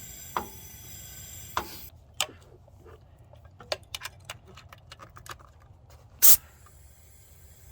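Compressed air hissing out of a cylinder of the Supra's engine during a leak-down test: air escaping past the valves. The hiss stops abruptly about two seconds in, followed by a few light clicks and one short, loud burst of noise about six seconds in.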